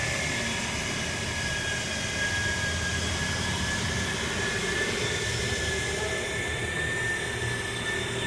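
Steady machine drone: a low rumble under a constant high whine, with no break or change.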